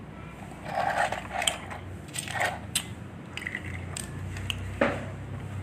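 Small plastic parts handled by hand: a string of sharp clicks and short scrapes and rustles, about eight of them spaced irregularly.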